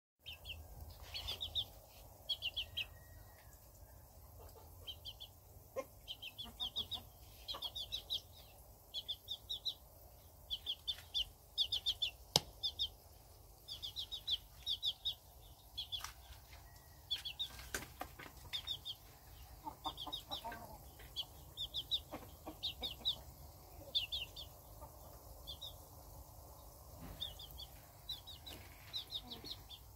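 A small bird chirping again and again: short quick runs of high notes about once a second, over a low steady background hum. A few sharp clicks, the loudest about twelve seconds in.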